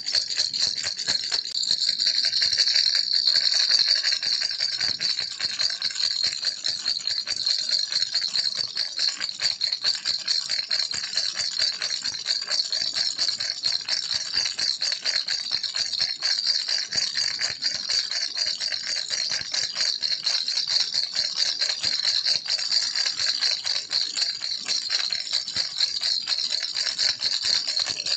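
Baby rattle shaken steadily without pause: a fast, dense, high clatter of small beads inside.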